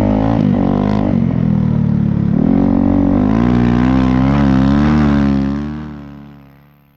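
Snow bike engine running under load, its pitch wavering up and down with the throttle, then fading out over the last second and a half.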